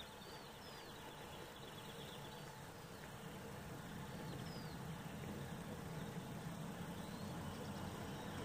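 Faint low rumble of a distant train, slowly growing louder as it approaches, with small birds chirping in short calls over it.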